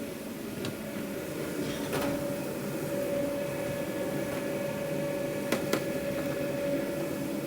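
Steady hum of a food truck's running kitchen machinery, with a few light clicks and knocks of handling in between.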